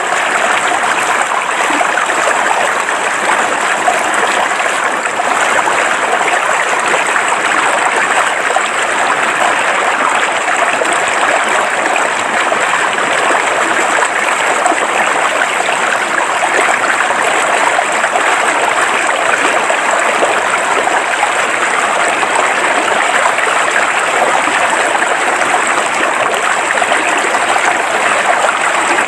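River water flowing steadily over rocks, a continuous even rush and babble with no pauses.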